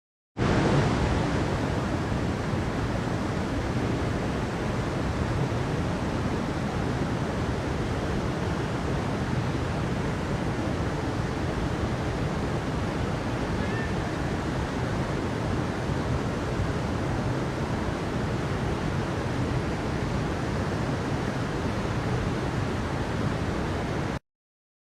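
Steady, even rushing noise with no distinct events, like surf, falling water or wind. It cuts in abruptly about half a second in and stops just as abruptly near the end.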